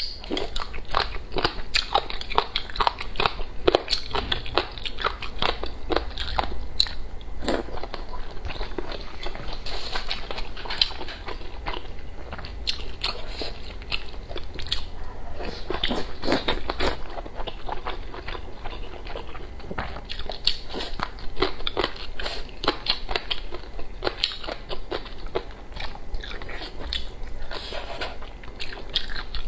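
Close-miked crunching and chewing of crisp, sun-dried pickled papaya shreds: a steady run of irregular crunches and crackles.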